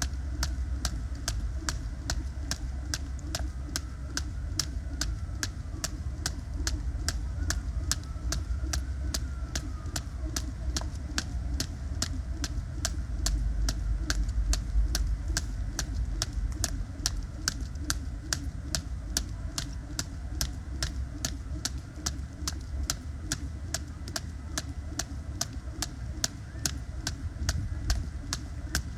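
Weighted 1 lb jump rope slapping the ground in an even rhythm, about three strikes a second, over a steady low rumble.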